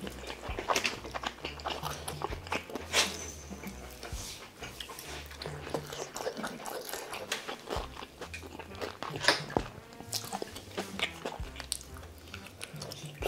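Close-up eating sounds of biting and chewing skewered fish cake, made up of many short wet clicks and smacks.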